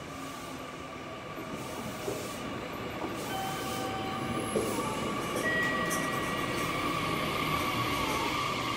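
JR Kyushu 885 series electric express train running into the platform and passing close by, growing louder as the cars go past. A few thin squeals are held for a second or two each, near the middle and in the second half.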